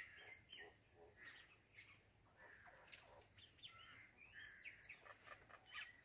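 Faint bird chirps: scattered short calls and brief gliding notes against near silence.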